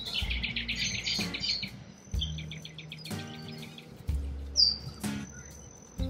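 Birds chirping in quick rapid series, with a sharp high whistled note about two-thirds of the way through, over background music with sustained low notes.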